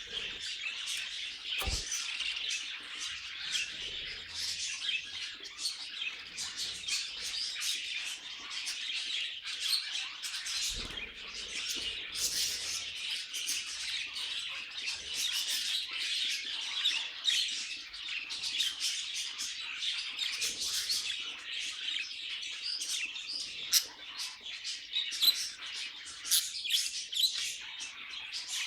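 A group of budgerigars chattering and warbling continuously, a dense overlapping stream of quick chirps and trills, with a couple of faint low thumps.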